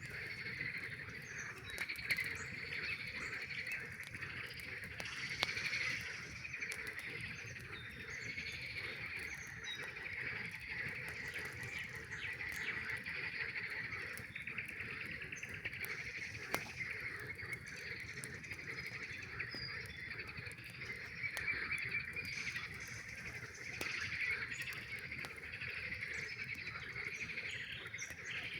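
A chorus of many frogs calling together at night, a dense, continuous trilling with higher chirps scattered through it, punctuated by the sharp pops and crackles of a campfire.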